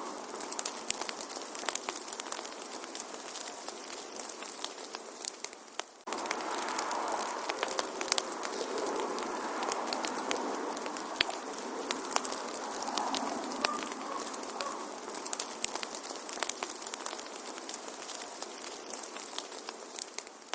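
Wood fire crackling, with many sharp irregular pops and snaps over a steady hiss. The sound dips abruptly for a moment about six seconds in, then carries on as before.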